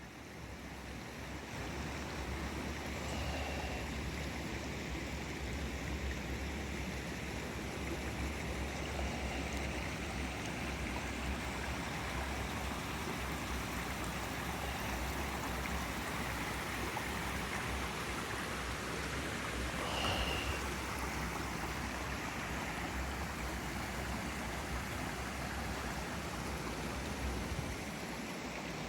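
Steady rushing noise of running water, like a nearby stream, with two brief high chirps, one a few seconds in and one about two-thirds through.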